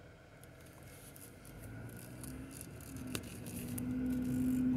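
Chevy Cruze Ecotec engine heard from inside the cabin as the car pulls away: a low steady hum that grows louder from about two seconds in. A single sharp click about three seconds in.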